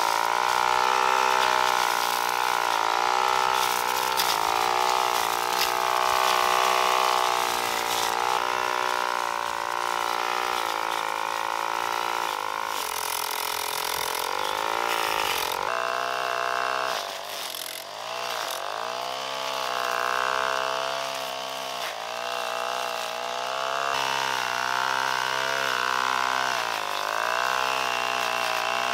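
Small engine running hard, its pitch sagging and recovering again and again as it takes and sheds load. The sound changes abruptly about 16 seconds in, then carries on in the same way.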